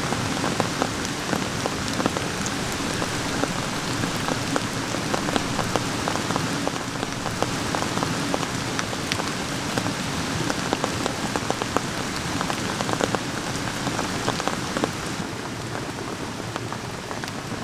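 Steady rain falling, with many sharp drop hits close by scattered over the even hiss.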